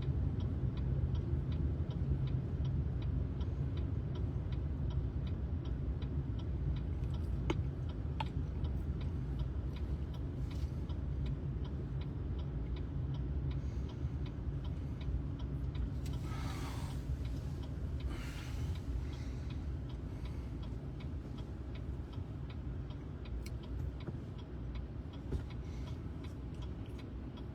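A car's turn-signal relay ticking steadily over the low drone of the engine and road noise inside the cabin. Two brief swishes come about two-thirds of the way through.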